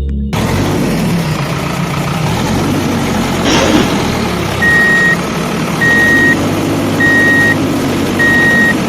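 Heavy vehicle engine running steadily, with a brief rush of noise a few seconds in, then a reversing alarm beeping four times, about a second apart.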